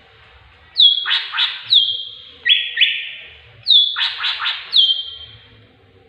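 A bird calling in two matching phrases, each a run of loud, sharp notes that drop quickly in pitch, mixed with harsh rasping notes and a flat held whistle. It is the tengkek buto (kingfisher) call used as a filler phrase in cucak ijo (green leafbird) training recordings.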